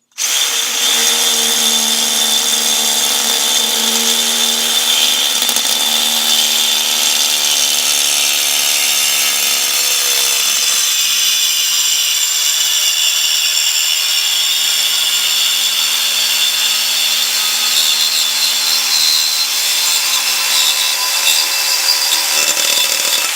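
Electric power tool cutting through steel exhaust pipe: a steady motor whine under a harsh, hissing cutting noise. The motor's pitch shifts about ten seconds in, and the cutting stops abruptly at the end.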